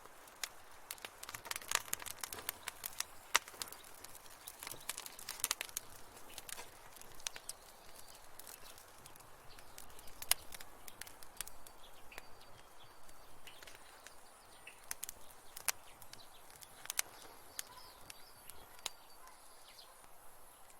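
Wood fire crackling and popping in a fireplace: irregular sharp pops over a soft steady hiss, coming thick and fast in the first few seconds and thinning out after.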